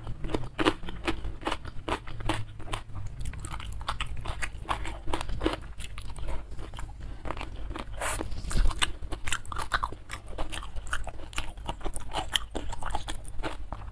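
Close-miked mukbang eating: crunchy bites and wet chewing and mouth clicks, eaten by hand from a stone mortar of sambal, with one louder rushing sound about eight seconds in. Near the end she sips from a cup.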